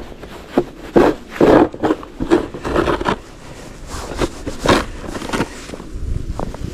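Snow being scraped and cleared in a series of irregular strokes, some short and some longer, busiest in the first half.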